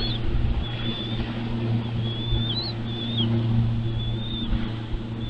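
A series of thin, high whistled bird calls, about six short notes with slight slurs, over a steady low mechanical hum.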